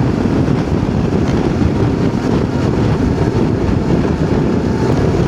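Voge DS525X parallel-twin motorcycle riding at road speed, heard as steady wind rush and road noise on the rider's helmet-mounted microphone, with the engine underneath.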